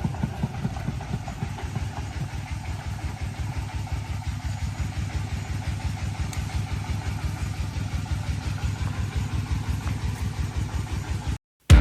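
Engine of a hand-built mountain cargo truck running with an even, rapid low pulse; it cuts off abruptly near the end.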